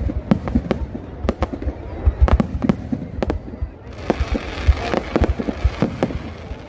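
Aerial fireworks exploding in a rapid, irregular string of sharp bangs and deep booms.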